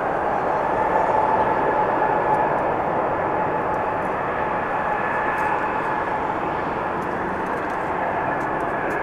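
Jet airliner engines running, a steady rush with a high whine, slightly louder between one and two seconds in.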